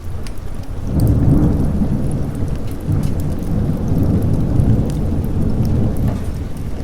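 Thunder rumbling over steady rain: a deep roll swells about a second in and keeps rolling, while raindrops patter with scattered sharp drips.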